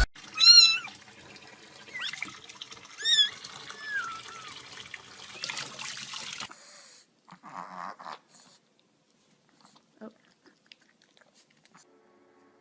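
Several short, high-pitched animal calls: one loud call about half a second in and two more around two to three seconds in, over a steady hiss. After about six and a half seconds only a few faint knocks and clicks remain.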